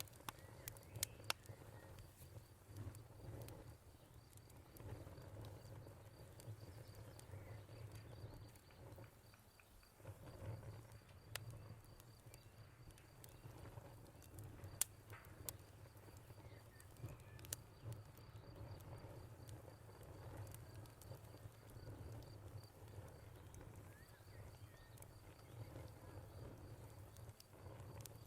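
Wood fire crackling, with scattered sharp pops over a low steady rumble, mixed with a faint evenly pulsing cricket trill and a few faint bird chirps.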